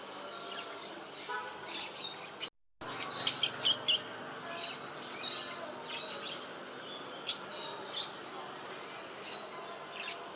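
Small cage birds chirping: a quick run of high chirps about three seconds in, then scattered single chirps. The sound drops out completely for a moment just before the run of chirps.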